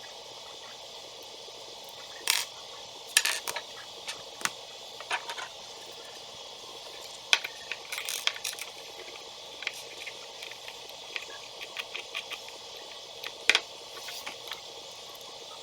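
Scattered light clicks and clatters of small plastic building bricks being handled and snapped together, over a steady hiss.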